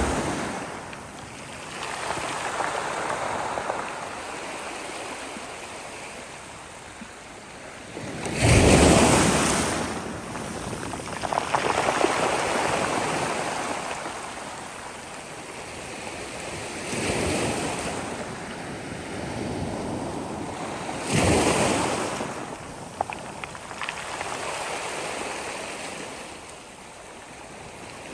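Sea waves breaking and washing up a shore, each surge swelling and fading every few seconds. The loudest breakers come about eight seconds in and again about twenty-one seconds in.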